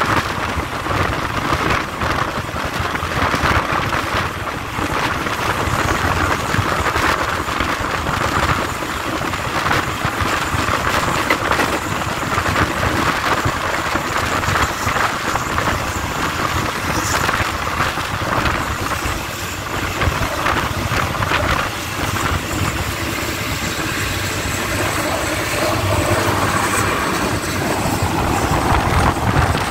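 Passenger train running along the track, heard from an open coach window: a steady rush of wheel and rail noise with small irregular clicks, mixed with air rushing past.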